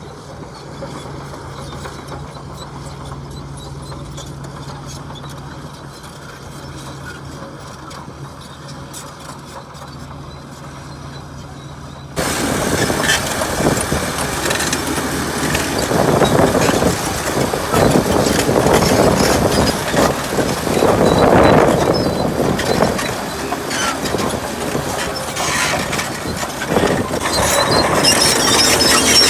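Diesel engines of heavy earthmoving machinery. A steady low hum gives way suddenly, about twelve seconds in, to much louder, uneven rumbling and clatter of machines working.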